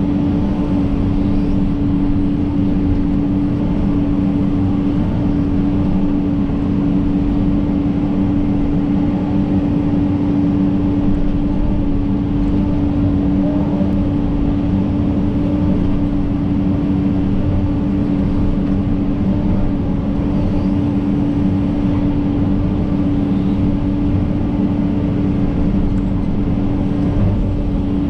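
John Deere 130G excavator running steadily under work, a constant engine hum with one strong held tone that does not change.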